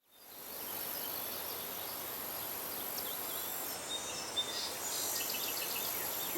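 Countryside ambience fading in: a steady hiss with a high, even insect-like drone, and faint bird chirps from about four seconds in.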